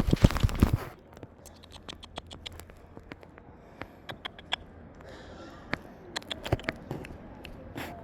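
Light scratching and scattered sharp clicks close to the microphone while a cat is petted, after a loud rustling bump in the first second.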